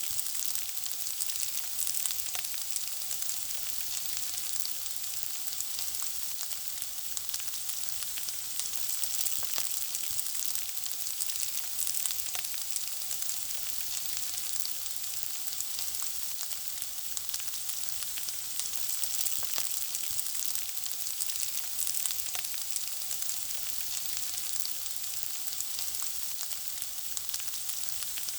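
Food frying in hot oil: a steady high sizzle with frequent small crackles and pops.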